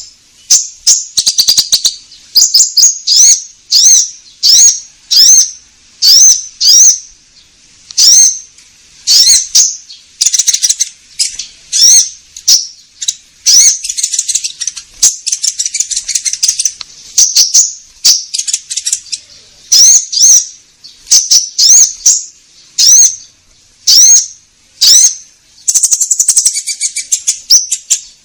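Konin bird singing a loud, repeated lure song: a run of short, sharp whistled chirps, one or two a second, broken now and then by a longer buzzy trill.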